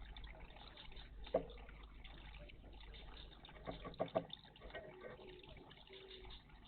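Tits splashing in a shallow bird bath: one splash about a second in, then a quick run of three or four splashes around four seconds in.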